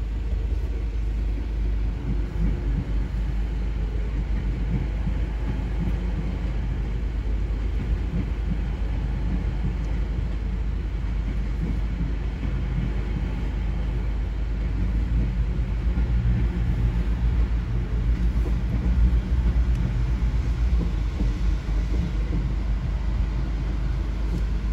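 Diesel multiple units, a Class 185 pair and a Class 170 Turbostar, passing slowly over a level crossing: a steady low rumble of engines and wheels, growing louder in the second half.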